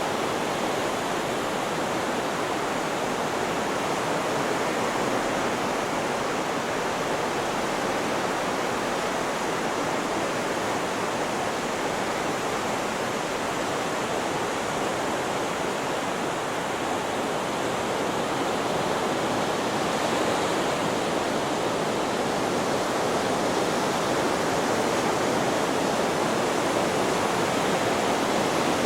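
Steady, even rushing white noise with no rise and fall of separate waves.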